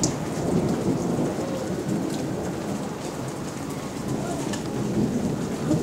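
Rain falling steadily during a thunderstorm, with a low rumble of thunder running under it and a few sharp drop ticks.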